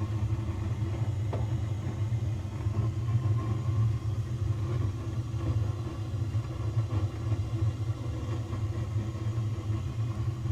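Gas burner of a Bradford White RG140T6N water heater firing, a steady low rumble; the owner calls it an odd sounding burner.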